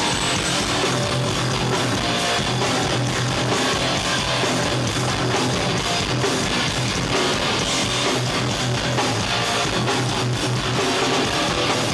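Hardcore band playing live, heavy distorted electric guitar riffing over bass and drums, loud and steady throughout.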